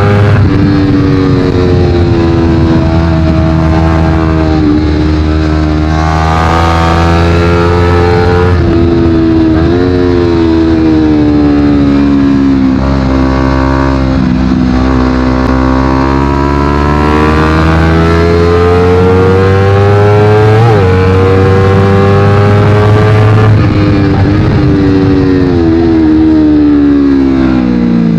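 Honda CBR250RR parallel-twin with a Yoshimura exhaust ridden hard. The engine pitch climbs and falls over and over, with quick breaks in the note at each gear change, and a long slide down in revs near the end.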